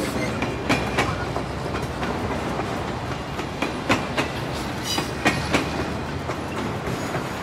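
A train running on rails: a steady rumble with paired clickety-clack beats of wheels over rail joints, a pair about every second and a half.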